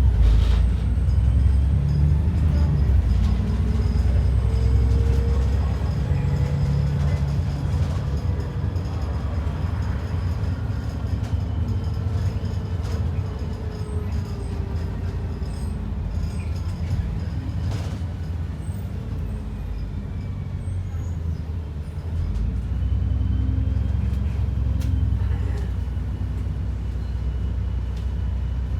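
Onboard sound of an ADL Enviro 400 double-decker bus under way: a steady low engine and road rumble with faint whines that rise and fall in pitch. The rumble eases through the middle and builds again about two-thirds of the way in.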